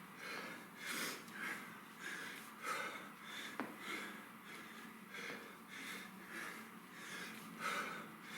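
A man breathing hard during kettlebell exercise: repeated forceful breaths, in and out, about one to two a second, with a few faint clicks.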